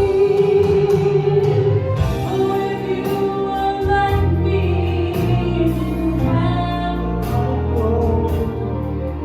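Gospel music with a choir singing over instrumental accompaniment, a bass line and steady percussion hits.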